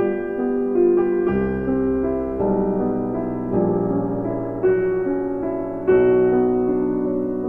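Slow piano music: single held notes over a few deep bass notes.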